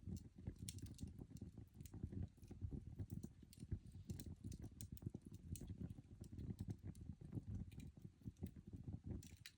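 Coal fire burning in a fireplace: small, irregular crackles and pops over a low, uneven rumble, with a quick run of crackles near the end.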